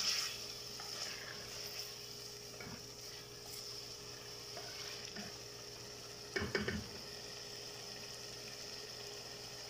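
Mutton pieces frying in tomato in an aluminium pot with a steady sizzle, stirred with a ladle during the browning stage. A short clatter of knocks comes about six and a half seconds in.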